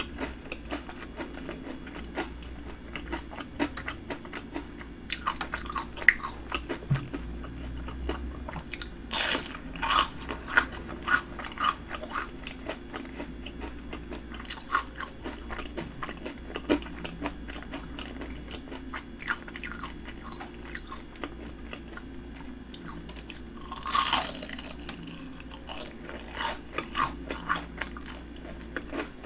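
Close-miked biting and chewing of crispy battered fried shrimp: crunching in irregular clusters of sharp crackles, with quieter stretches of chewing between.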